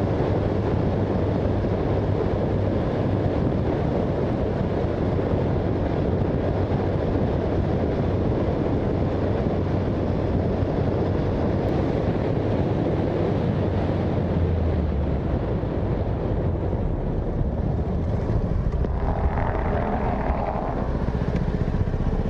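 Honda Super Cub 90's small single-cylinder four-stroke engine running steadily through a newly fitted monaka-style muffler, with small shifts in its note a little past the middle and a few seconds before the end.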